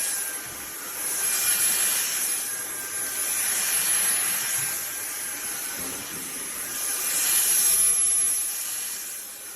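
SunSare cordless stick vacuum running: a high motor whine over a steady rush of air, swelling and easing in loudness every two or three seconds.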